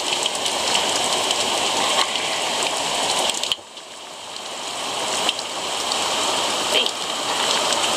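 Rain falling steadily and pattering close to the phone's microphone. About three and a half seconds in it drops away suddenly, then builds back up over the next few seconds.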